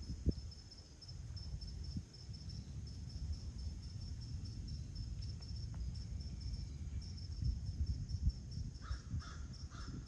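A crow cawing about three times in quick succession near the end, over a continuous high, rapidly pulsing chirp and a low background rumble.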